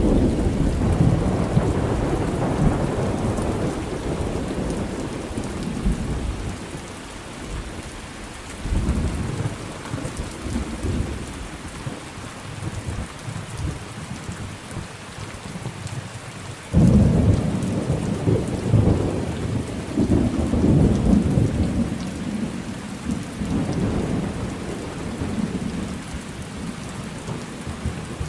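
Thunderstorm: steady rain with rolling thunder. A rumble fades over the first few seconds, another rolls in about nine seconds in, and a sudden loud clap about seventeen seconds in rumbles on for several seconds.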